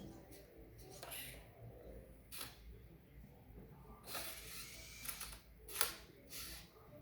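Small robot mechanisms making a handful of short clicking and whirring sounds, the loudest a little before the end.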